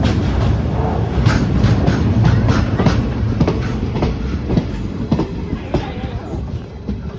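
Train wagons rolling past on the track, their wheels clicking sharply over the rail joints over a heavy rumble. The sound fades away over the last few seconds as the train moves off.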